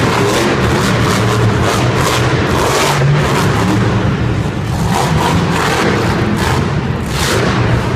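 Monster truck engine revving hard and loud in repeated surges during a run.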